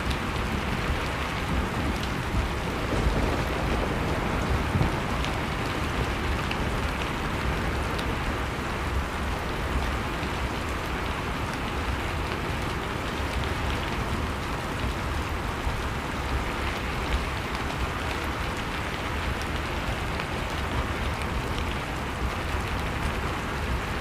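Steady rushing noise of blizzard wind with a low rumble underneath, mixed with the faint, scattered crackle of a wood fire.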